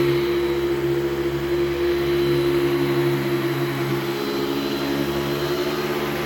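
Hoover Celebrity II Elite canister vacuum cleaner running steadily, its motor holding one even pitch.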